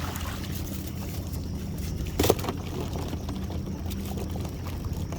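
Boat motor running steadily at low speed along a crab trotline, with a single sharp knock a little over two seconds in.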